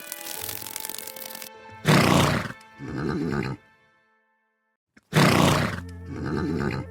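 An animal's loud two-part call, given twice with a short silence between, after a stretch of background music.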